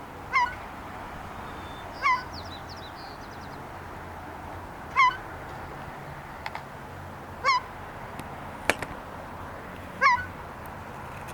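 A gull calling: five short, hooked calls, one every two to three seconds. A faint high twitter sounds briefly about two seconds in, and a single sharp click comes near the end.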